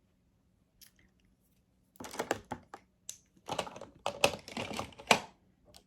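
Makeup compact and brush being handled: a quick run of light plastic clicks and taps, starting about two seconds in and stopping shortly before the end.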